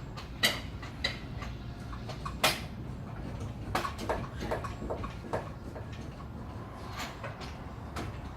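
Scattered metal clanks and knocks from work on a car's engine bay, the two loudest about half a second and two and a half seconds in, then a run of smaller knocks a little past the middle, over a steady low hum.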